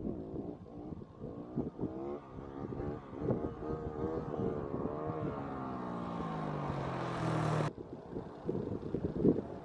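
Motorcycle engine pulling hard under throttle, its pitch changing over several seconds, then breaking off suddenly about three-quarters of the way through, followed by choppier engine noise.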